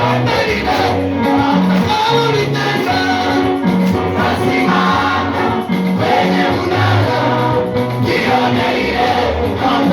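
Gospel worship music: singing over a band, with a bass line moving in held notes.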